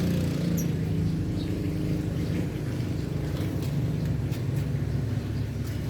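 A motor engine running steadily at idle, a low even hum, with a few faint short high chirps over it.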